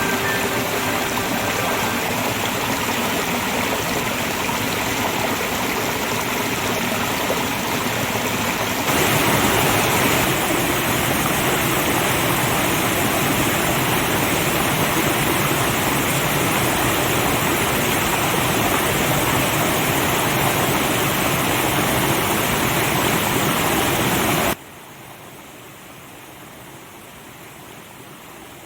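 Waterfall running high after rain: a steady rushing of falling water. It steps louder about a third of the way in, then drops abruptly to a much fainter rush near the end.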